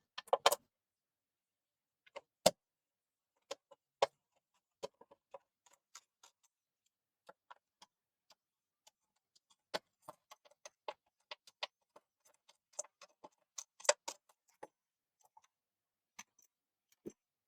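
Scattered light clicks and taps, irregular and spaced out, from plastic parts and small tools as a PlayStation 4 Slim console is handled and taken apart; a few sharper knocks stand out near the start and about two-thirds of the way through.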